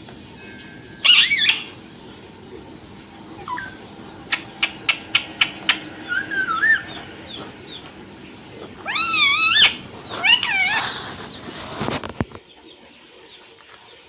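Indian ringneck parrot giving short wavering calls, with a quick run of sharp clicks about four to six seconds in, and a louder pair of calls around nine to ten seconds.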